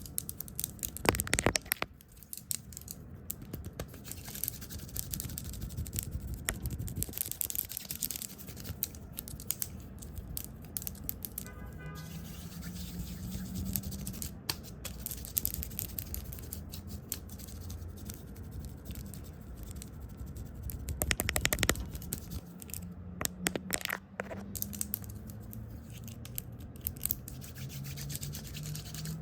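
Close-miked brushing and scratching on a camera lens, fast and irregular, broken by sharp taps and clicks that come in quick flurries.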